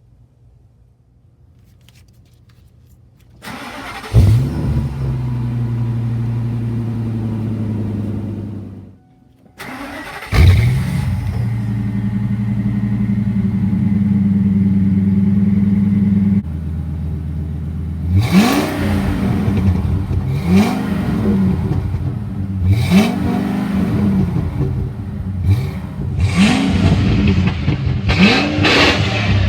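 A 2001 Ford Excursion's engine and exhaust: cranked and started about 4 seconds in, idling, shut off, then started again and held at a fast idle that drops to a lower idle. It is then revved about six times in short blips, each a rise and fall in pitch.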